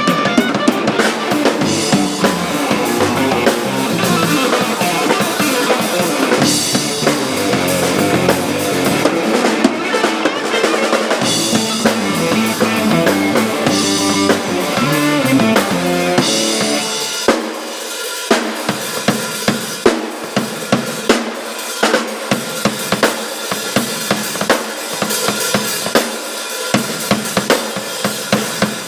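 Rock band playing in rehearsal: a drum kit with kick, snare and rimshots, played together with low pitched instruments. About seventeen seconds in, the low pitched parts drop out and the drum kit carries on almost alone with sharp, regular hits.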